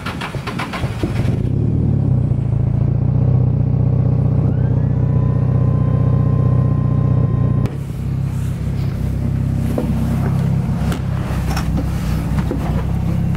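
Nissan S13 Silvia's engine running through its large-bore exhaust. It settles from a fast pulsing into a steady low idle drone in the first second or so, and a faint whine rises in pitch and holds from about four and a half seconds in. After a cut about eight seconds in, the engine is heard running steadily from inside the cabin.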